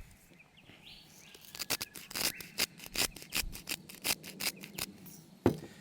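Salt being rubbed by hand into pork skin to draw out moisture for crackling: a quick run of gritty scraping strokes, about four a second, then one sharp knock near the end.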